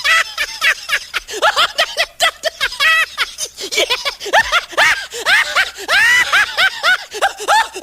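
High-pitched giggling laughter sound effect: a quick run of short syllables, each rising and falling in pitch.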